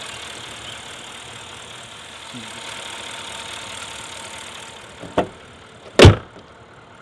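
Steady hum of the Audi A8L's twin-turbo 4.0-litre V8 and cabin noise, fading a little, then two sharp knocks about five and six seconds in, the second much louder.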